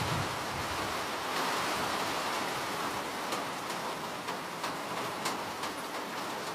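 Steady rain, a continuous even hiss, with scattered sharper drops ticking from about halfway through.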